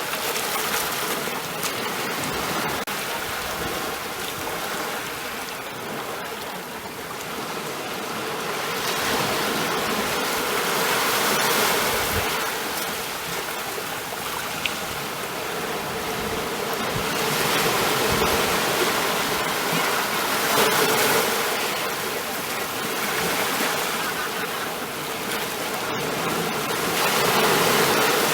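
Ocean waves breaking and washing on a shore, a continuous rush of surf that swells and eases every few seconds.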